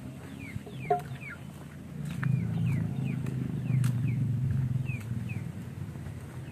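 A small bird peeping in short, descending chirps, about three a second. Under it, a low hum swells up from about two seconds in and fades after five seconds.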